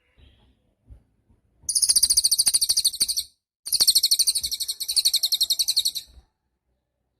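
Cililin bird singing two long, rapid, high-pitched trills separated by a short pause, a lively 'gacor' song.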